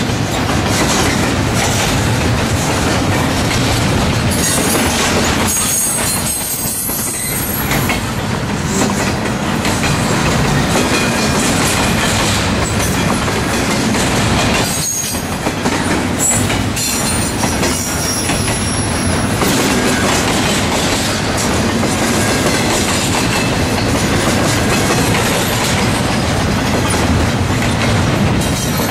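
Double-stack intermodal train's well cars rolling past close by: a steady rumble and clatter of steel wheels on the rails, with faint high-pitched wheel squeals coming and going a few times.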